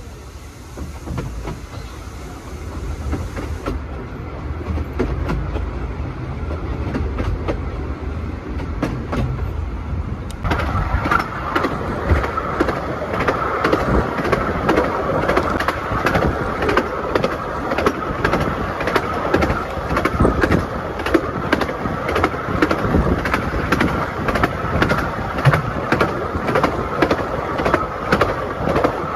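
Carriages of a 15-inch-gauge miniature railway train running on the track: a low rumble builds over the first several seconds, then, about a third of the way in, the wheels rattle in a fast, steady clickety-clack over the rails, heard from an open carriage window.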